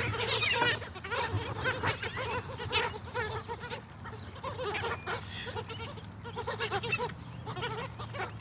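A flock of seagulls calling over one another, many short overlapping cries with no pause between them.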